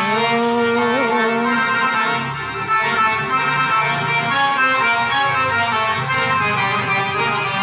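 Accordion playing an Arabic taqasim improvisation: a rising slide into a held note with a short ornament about a second in, then a run of changing melodic notes.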